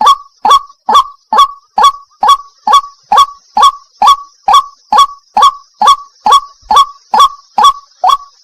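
White-breasted waterhen ('wak-wak') calling: a loud, monotonous series of harsh 'wak' notes, about two and a half a second, each one swooping up in pitch.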